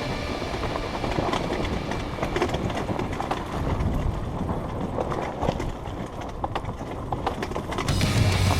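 Kawasaki KX450 dirt bike rattling and clattering over rough, rocky trail with its engine low, a quick run of irregular knocks from the chassis and ground. The engine comes back up near the end.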